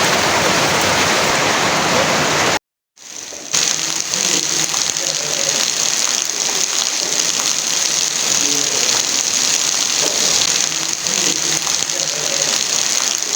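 Heavy rain falling steadily. About two and a half seconds in it cuts out for under a second, then comes back with a brighter, hissier sound.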